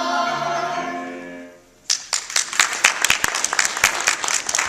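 A children's choir holds the song's final note over accompanying music, fading out; about two seconds in, audience applause breaks out suddenly and carries on.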